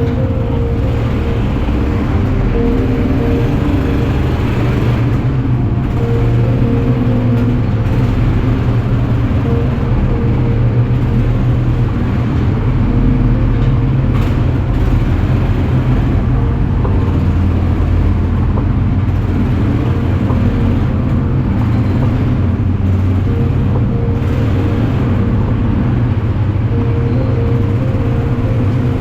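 Quad bike (ATV) engine running steadily while riding, a loud low drone.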